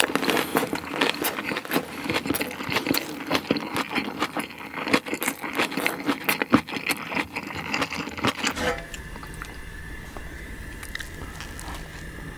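Close-miked chewing of a lettuce wrap of spicy pork bulgogi: crisp lettuce crunches with wet, squishy mouth sounds. About nine seconds in this cuts off abruptly to a steady low hum with a faint thin high tone.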